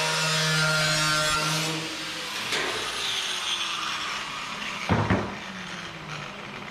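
A power tool running steadily, then switched off about two seconds in and winding down with a falling pitch. A couple of sharp knocks about five seconds in.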